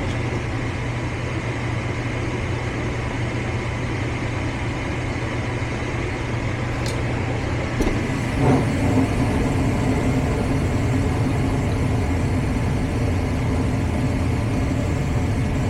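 Steady mechanical hum of a gas furnace running. About eight seconds in, a click is heard, and a second, slightly higher steady hum joins and continues.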